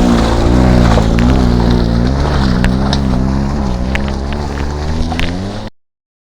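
Car engine revving hard, its pitch rising and falling unevenly as the car struggles to climb a slippery, rain-wet uphill road, with a few scattered sharp clicks. The sound cuts off abruptly near the end.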